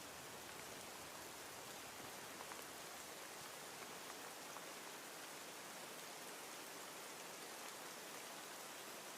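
Steady, faint rain with scattered small drop ticks.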